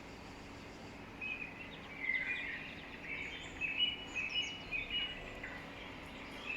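A bird chirping: a run of short, quick calls over faint background noise, starting about a second in and dying away near the end.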